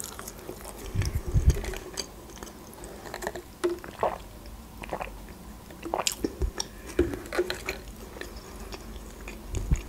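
Close-miked eating: chewing a sauce-dipped potato wedge with scattered wet mouth clicks, and a short sip through a drinking straw.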